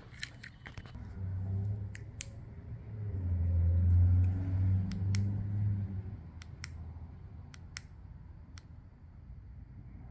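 Buttons on a small plastic key-fob remote for an LED light kit clicking, mostly in quick press-and-release pairs, several times over. A low rumble swells and fades during the first six seconds.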